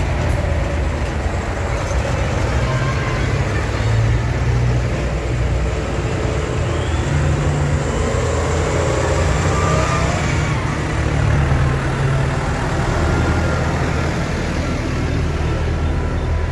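Tractor engines running, a loud, steady low drone with no break.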